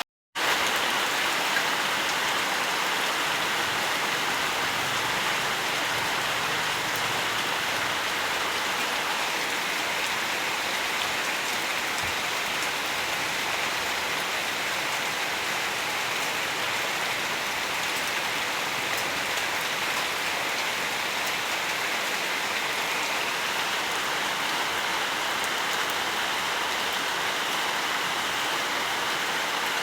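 Steady rainfall, an even hiss of many drops with no thunder. The sound drops out for a split second right at the start, then runs on unchanged.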